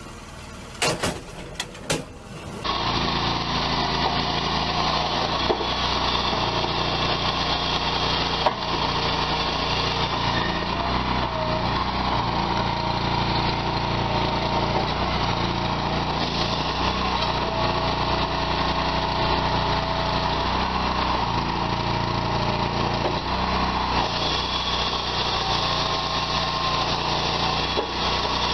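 A few sharp clicks, then from about two and a half seconds in a small engine or machine running steadily.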